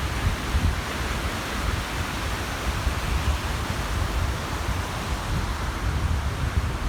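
Small waves washing steadily onto the shore of a large reservoir, with wind gusting across the microphone as an uneven low rumble.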